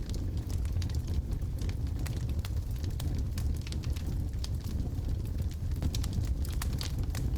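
Wood fire burning in a fireplace: a steady low rumble of the flames with frequent, irregular sharp crackles and pops from the logs.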